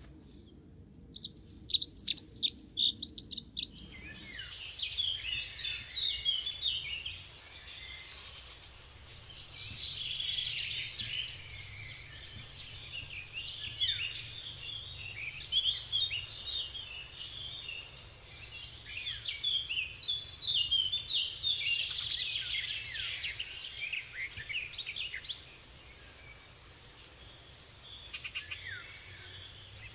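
Small birds chirping. About a second in comes a loud run of rapid high chirps. From about four seconds on, a chorus of chirps swells and fades in waves and thins out near the end.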